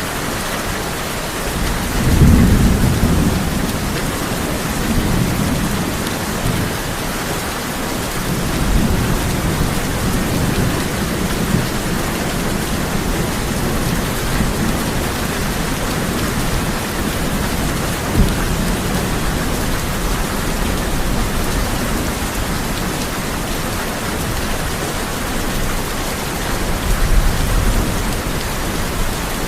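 Steady heavy rain drumming on a tin roof, with rolls of thunder: a low rumble swells about two seconds in and fades slowly, a sharp crack comes past the halfway point, and another rumble rises near the end.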